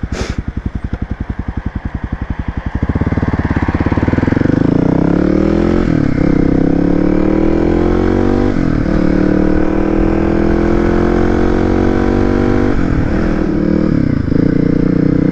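Kawasaki motorcycle engine chugging at low revs, then pulling away and accelerating through the gears: the note climbs, dips at each of about four gear changes, and climbs again.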